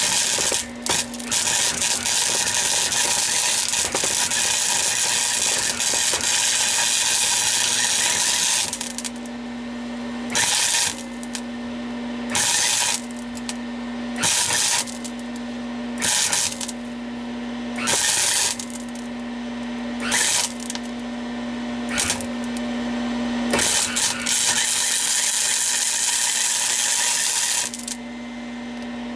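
Flux-core MIG welding arc crackling and spitting as it lays steel weld: one long bead of about nine seconds, then a run of short stitch welds about every two seconds, and another longer bead near the end. A steady hum from the welder fills the pauses between welds.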